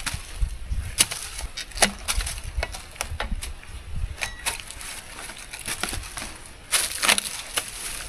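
Bark being broken and stripped off a log: irregular cracks, snaps and splintering scrapes, with a longer rough scrape about seven seconds in.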